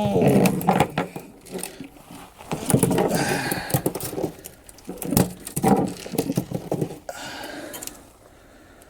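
Irregular knocks, taps and rattles of fish and fishing tackle being handled in a small boat, busiest in the first seven seconds and then fading to a faint hiss.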